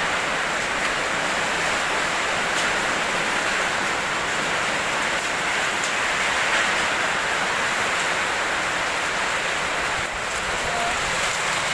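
Heavy rain pouring down in a storm, a steady even hiss with no let-up.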